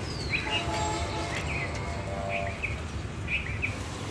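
Small birds chirping in short repeated calls, several a second at times, over a low steady background rumble.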